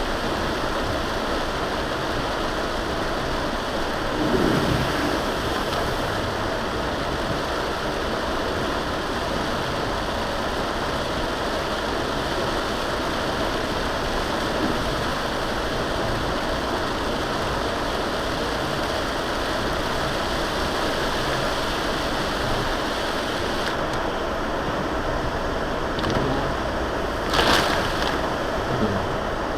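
Steady rushing noise of a car driving on a rain-soaked road: tyres hissing through standing water under road and engine noise. A brief louder swoosh comes about four seconds in, and a short sharp burst of noise about two seconds before the end.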